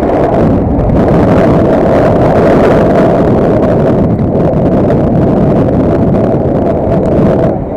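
Loud, steady vehicle ride noise: wind buffeting the microphone over the running and road noise of the moving vehicle, easing briefly near the end.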